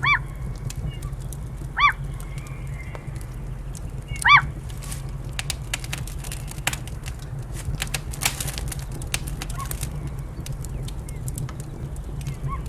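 Three short, arched bird calls in the first few seconds over a steady low rumble, then a run of sharp crackles from a fireplace fire in the middle.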